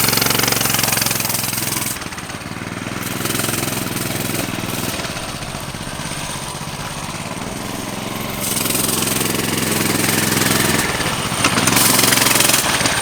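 Coleman CT200U mini bike's single-cylinder four-stroke engine running, its revs rising and falling: loud in the first two seconds, easing off, then building again to its loudest near the end.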